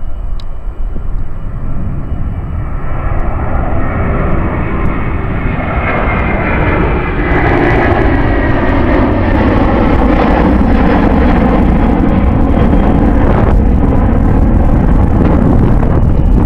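Airbus A330-200's twin Pratt & Whitney PW4000 turbofans at takeoff thrust: a deep jet rumble with a whine on top, growing louder over the first several seconds, then loud and steady.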